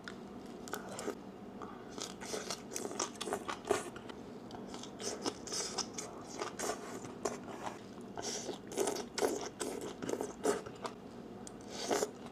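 Close-miked crunching and chewing of green vegetable stalks, a string of irregular crisp bites.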